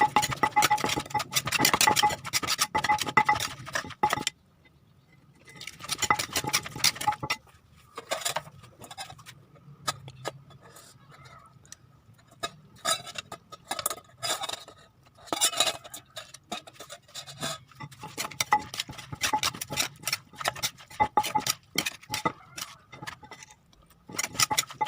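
Utensils and dishes clinking and scraping in bursts of quick clicks and knocks, with short quieter gaps between.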